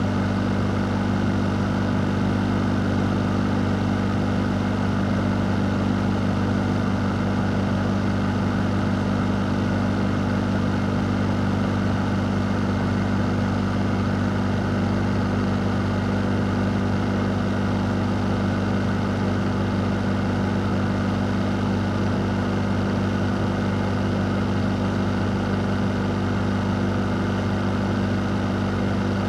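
A fan running steadily: an even rush of moving air over a strong, constant low hum, with no change in speed.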